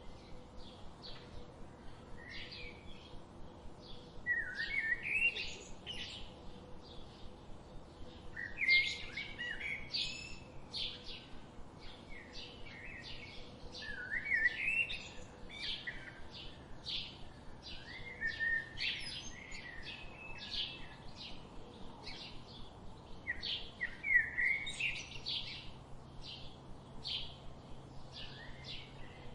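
Wild songbirds singing: a steady run of short, high chirps, two or three a second, broken every few seconds by a louder, lower warbling phrase from another bird.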